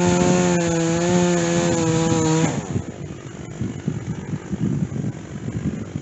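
Stihl chainsaw cutting white oak with a dull chain, its engine holding a steady high pitch, then cutting off suddenly about two and a half seconds in. A quieter, irregular low rumble follows.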